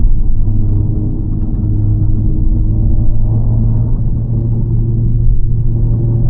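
Honda Civic FL5 Type R's 2.0-litre turbocharged four-cylinder heard from inside the cabin through an HKS Legamax exhaust with an aftermarket downpipe: a steady low drone while driving. Its pitch edges up slightly about five and a half seconds in.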